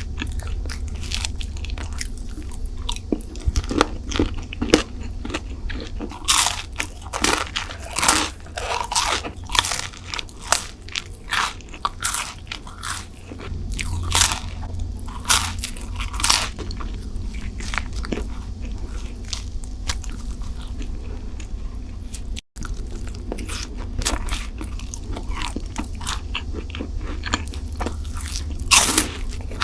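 Close-miked eating of crunchy sweets: repeated crisp bites and crunching chews over a steady low hum, with a momentary break about two-thirds of the way through.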